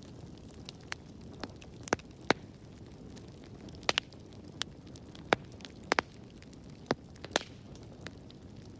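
Wood fire crackling in a fireplace: sharp, irregular pops and snaps, about a dozen, the loudest around two and five seconds in, over a low steady rush of the flames.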